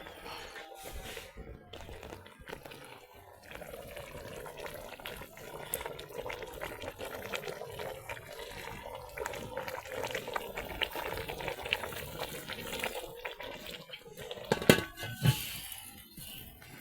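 Water running or being poured in a kitchen, a steady splashing, followed near the end by two sharp knocks a little over half a second apart.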